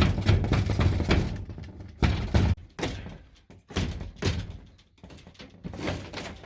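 Knocks, thuds and scraping of wooden interior trim being pulled loose and handled inside a van, heaviest in the first second and a half and again about two seconds in, then lighter clicks.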